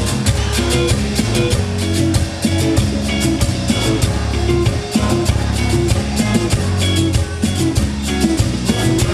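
Live band playing an instrumental passage: guitar over a steady drum-kit beat and bass, with no singing.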